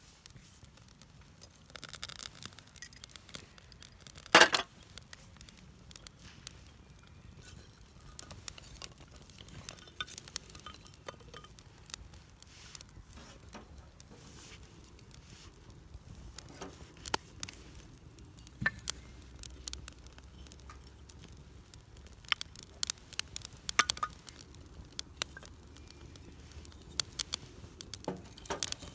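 Scattered light clicks, taps and scrapes of hands handling wood and camp gear, with one louder knock about four seconds in.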